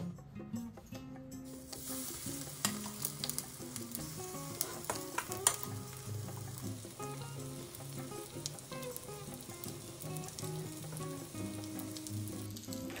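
Thin vegetable pancakes of zucchini, carrot and onion in batter sizzling in oil in two frying pans, with scattered sharp pops of spitting oil. The sizzling starts about a second and a half in, over quiet background music.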